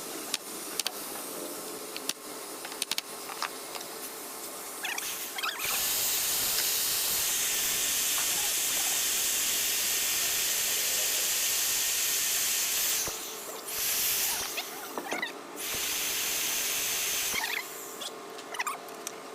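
A woodworking power tool running steadily in three stretches, the first about seven seconds long, with scattered knocks and taps of work on wood before and after.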